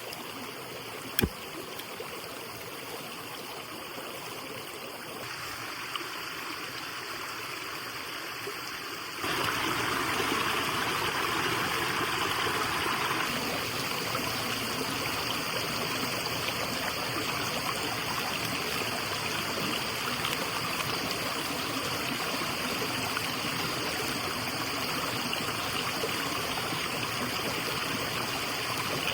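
Steady rush of running water, with a single sharp click about a second in. The water sound gets abruptly louder and brighter about nine seconds in and stays that way.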